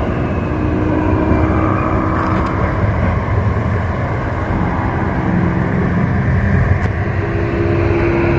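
A railway locomotive running close by: a loud, steady mechanical rumble with a low drone and a few held higher tones.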